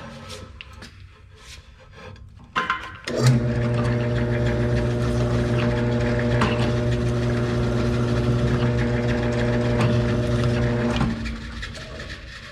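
An electric drill's motor starts a little over three seconds in, runs steadily with a constant hum for about eight seconds while countersinking a mounting hole in metal, then is switched off and winds down. A few clicks and knocks come before it starts.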